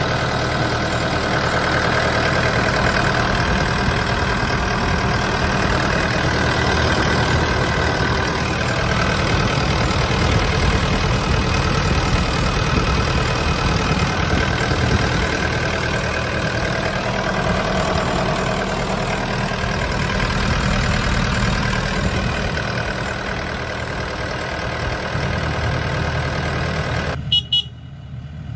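Diesel engine of a 2018 Komatsu PC78US-10 compact excavator running steadily. It drops away abruptly with a few clicks shortly before the end.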